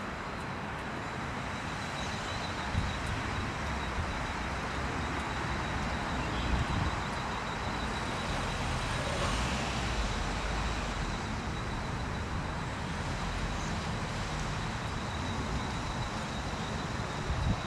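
Steady outdoor background noise, with a low rumble that swells and fades in the middle and a faint steady high-pitched tone throughout.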